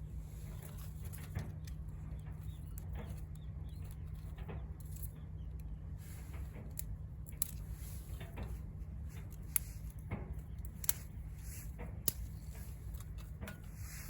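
Wood fire crackling in a Vargo Hexagon titanium wood stove: irregular sharp pops and snaps, a few louder ones in the second half, over a steady low rumble.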